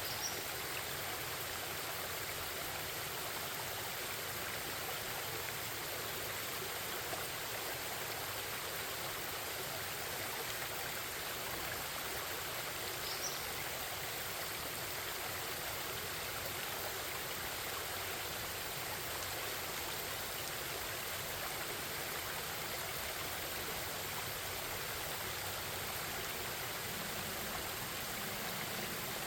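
Forest stream babbling steadily over rocks. Two brief high chirps sound faintly above it, one near the start and one about halfway through.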